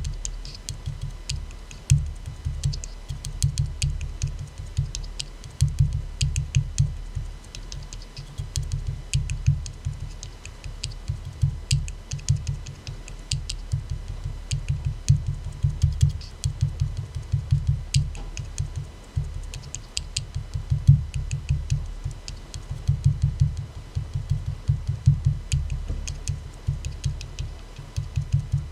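Fingertips and nails tapping quickly on an aluminium soda can, in irregular runs of several taps a second; each tap gives a sharp click over a dull, hollow thud.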